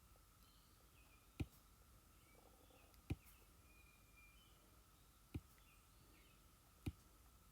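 Four sharp, single clicks at uneven gaps of one and a half to two seconds, the clicks of input on a computer drawing program, over faint background hiss with a faint steady high drone and faint chirps.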